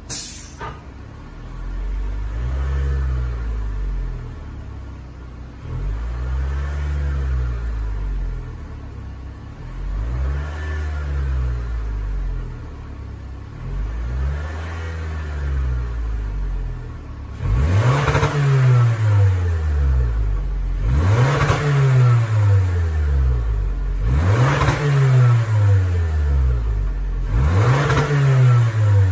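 2023 Lexus NX250's naturally aspirated 2.5-litre four-cylinder revved eight times through an aftermarket exhaust with a transverse rear muffler and four tailpipe outlets, each rev rising and falling in pitch. The first four revs are milder; from about halfway the last four come louder and sharper. A short click sounds right at the start.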